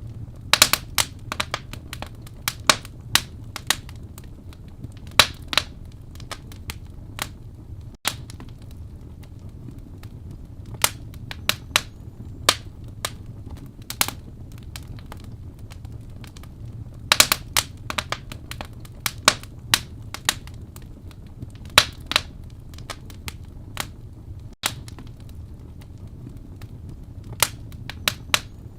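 Wood fire burning in a fireplace: a steady low rumble with many sharp, irregular crackles and pops, some coming in quick clusters.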